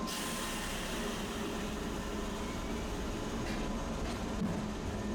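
Tosaden streetcar running: a steady rumble with a hiss over it that sets in suddenly at the start.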